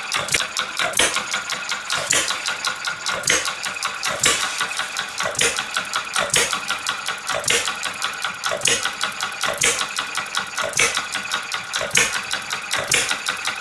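Self-built model hit-and-miss engine running: a fast, even mechanical clatter with a stronger beat about once a second, the rhythm of an engine that fires only now and then and coasts between.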